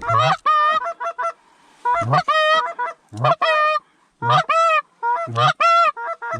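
Canada goose call blown by a hunter: quick groups of two to four honks and clucks, each note breaking from a low grunt up to a high honk, coming in bursts about once a second, loud and close.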